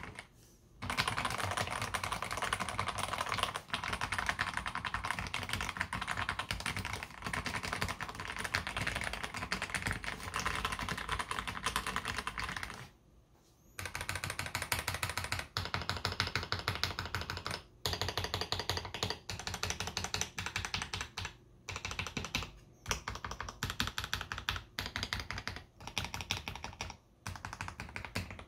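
Typing on a KBD67 Lite R3 mechanical keyboard with lubed AKKO CS Jelly White linear switches: fast continuous keystrokes with a pause of about a second halfway through and several short breaks in the second half.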